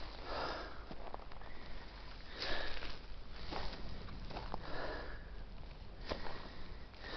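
A hiker breathing hard while climbing a steep slope, a heavy breath about once a second, with footsteps clicking and scuffing on dry ground. The breathing is from exertion and fatigue.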